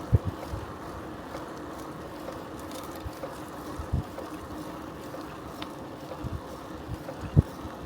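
A bicycle rolling along: a steady rush of tyre and wind noise with a faint hum, broken by a few short low thumps, the loudest near the end.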